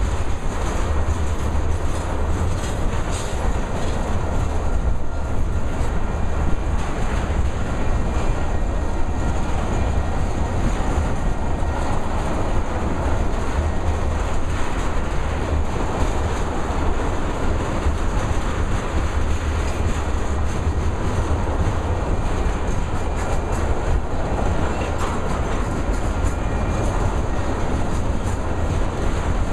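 Freight train of ethanol tank cars rolling past: a steady deep rumble with the clatter of wheels over the rails.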